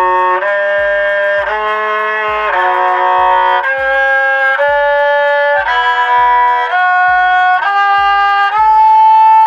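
Saw sam sai (Thai three-string bowed fiddle) playing a scale from low to high, one held note per bow stroke, about one note a second.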